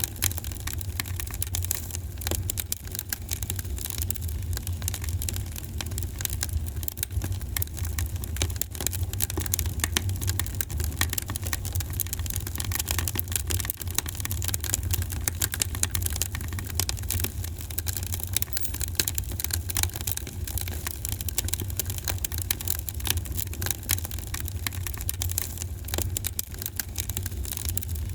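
Fire in a fireplace crackling: many small pops and snaps over a steady low rumble of the flames.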